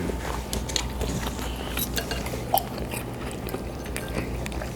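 Close-miked chewing and mouth sounds of someone eating seafood, with scattered small clicks and ticks of shell and meat being handled.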